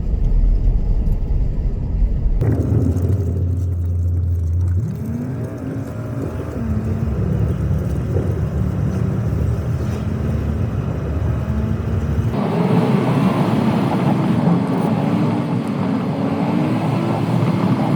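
Car engine and road noise heard from inside the cabin while driving, a steady low rumble whose character shifts abruptly a few times, with a wavering tone that rises and falls in the last few seconds.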